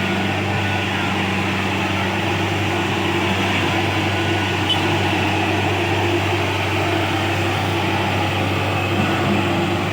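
Diesel engine of farm machinery running at a steady speed, an even drone with no revving.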